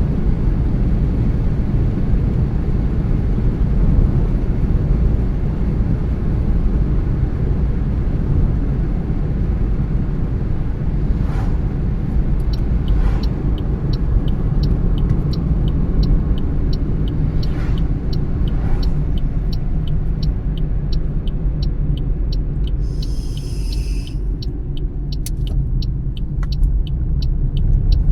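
Car driving along the road: a steady low rumble of engine and tyre noise. In the middle, an even clicking about twice a second runs for roughly ten seconds, followed by a short hiss.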